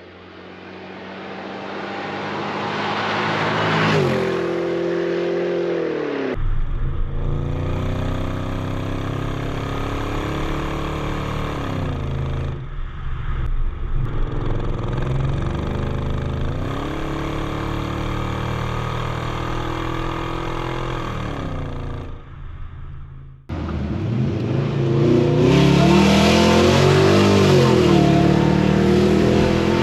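BMW 740i E38 V8 exhaust, revved up and dropping back to idle over and over, in a string of edited clips that cut off abruptly. The level builds over the first few seconds as the engine climbs.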